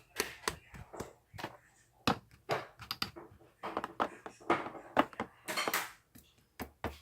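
A string of irregular clicks, taps and knocks, like objects being handled and set down in a small room.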